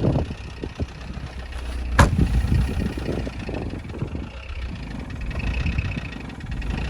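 Toyota Avensis D-4D turbodiesel engine idling cold after a start at −9 °C, an uneven low rumble. A single sharp click comes about two seconds in.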